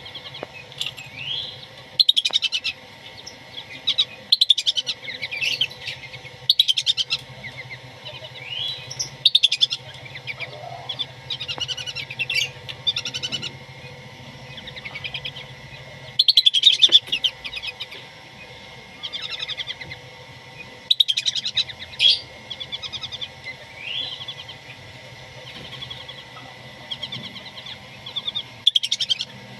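Whistling ducks calling: repeated bursts of high chirps and short rising whistles, in groups every few seconds.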